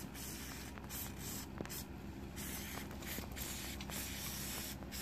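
Aerosol can of brake parts cleaner spraying in a series of hissing bursts with short breaks between them, degreasing built-up grease and grime around a mower engine.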